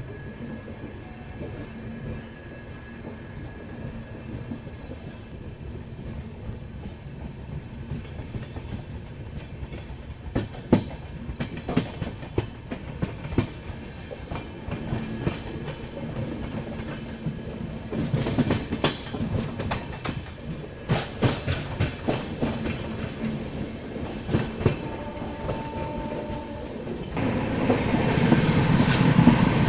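Express train running, its wheels clicking and knocking over rail joints above a steady rumble. The clicks grow thicker about a third of the way in, and the whole sound gets clearly louder near the end.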